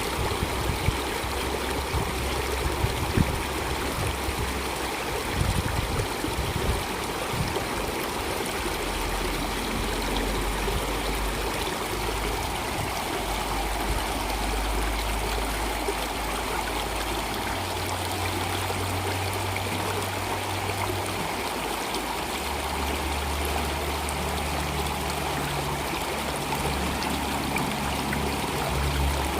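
Stream water flowing steadily, a continuous rushing and trickling. Underneath runs a faint low hum that shifts pitch every few seconds.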